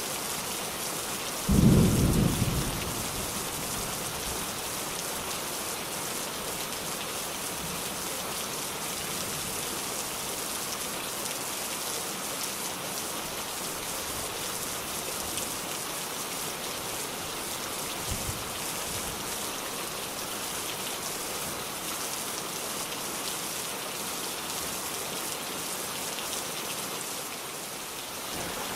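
Steady heavy rain falling with an even hiss. About a second and a half in, a loud clap of thunder rumbles low for about a second, and a faint low rumble comes again near the middle.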